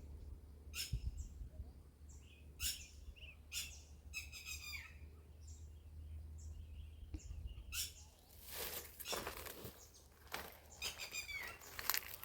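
Birds calling with short high chirps every second or two, one a quick rattling trill that falls in pitch. From about eight seconds in, a run of rustling, crackling noise takes over.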